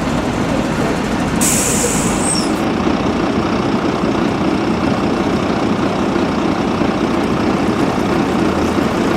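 A bus's diesel engine running steadily, with a short hiss of air from the air brakes about a second and a half in.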